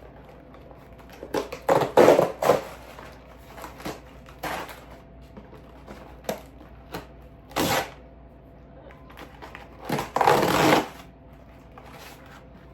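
Plastic snack packaging crinkling and rustling in several short bursts as packs are pulled from a 5-pack, the longest near the end.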